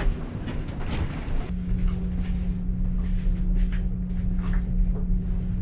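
Steady low rumble inside a passenger railway car, with a steady hum setting in about a second and a half in and holding.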